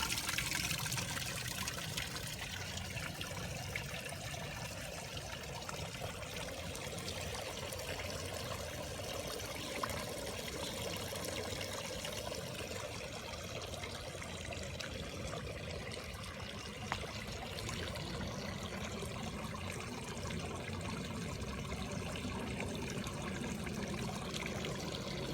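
Water from restored fountains trickling and splashing steadily.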